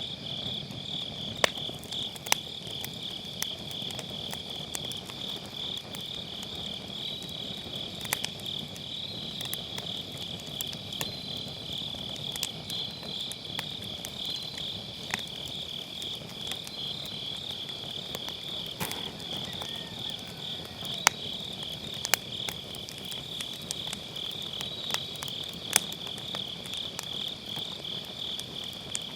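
Wood fire crackling in a round fire pit, with irregular sharp pops from the burning firewood over a soft low hiss of flame. Behind it, autumn night insects such as crickets chirr in a steady high pulsing trill.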